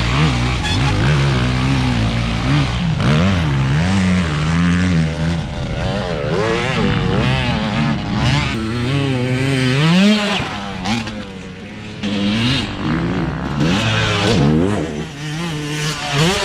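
Motocross dirt bike engine being ridden hard, its pitch rising and falling every second or two as the throttle is opened and shut through the gears.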